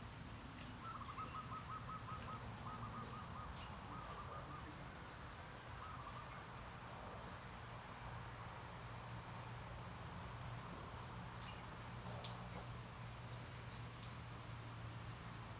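A faint bird call: a rapid trill of short, even notes over a few seconds, with a shorter run shortly after, over a steady low hum. Two sharp clicks come near the end.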